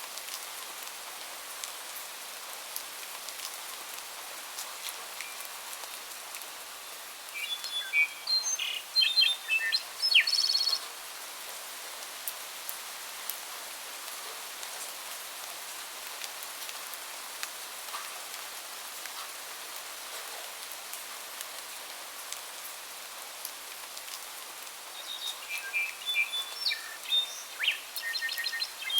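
A songbird sings two bursts of quick chirping notes, about seven seconds in and again near the end, over a steady hiss of rain with scattered drips.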